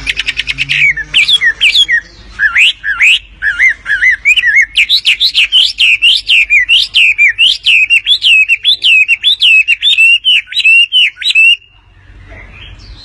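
Wambi bird singing loudly: it opens with a rapid chattering run, then a long series of repeated rising-and-falling whistled notes, about two a second, which stops abruptly near the end.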